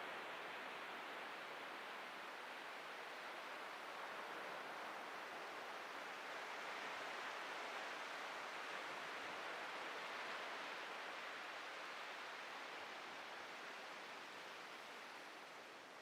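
Ocean surf: a steady wash of breaking waves, swelling slowly to a peak about halfway through and easing off near the end.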